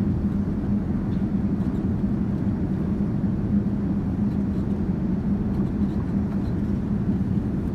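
Boeing 787-9 cabin noise in cruise: a steady low drone of engines and airflow, with a constant low hum.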